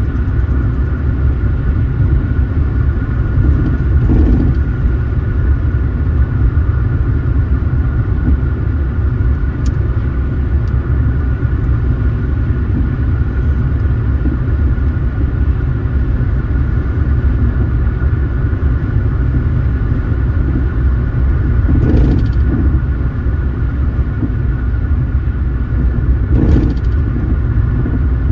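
A car driving at a steady speed, with a continuous low road and tyre rumble. A few brief whooshes pass over it.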